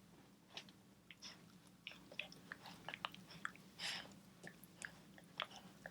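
Faint, scattered small clicks and crackles of chihuahua puppies playing and gnawing, with a slightly longer rustle about four seconds in.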